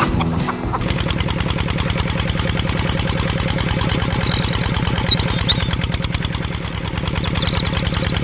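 A small engine running with a fast, even chug that starts about a second in, with birds chirping high above it.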